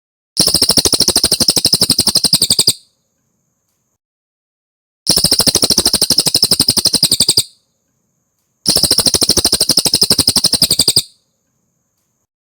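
A cililin songbird singing three bursts of a fast, even, high-pitched trill. Each burst lasts about two seconds, with pauses of about two seconds between them.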